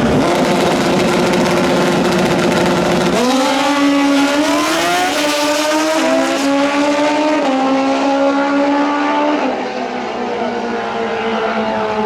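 Drag-racing motorcycle engine at full throttle, its pitch climbing in steps as it shifts up through the gears, then falling away over the last couple of seconds.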